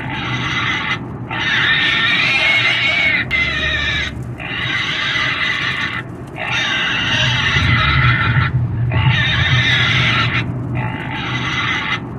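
Pig screaming: a run of about six long, shrill squeals of wavering pitch, each one to two seconds long with short breaks for breath.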